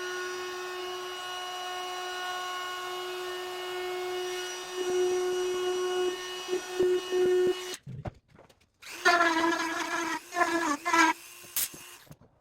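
Small power tool motor running at a steady pitch for about eight seconds, then, after a short break, run in several brief spurts.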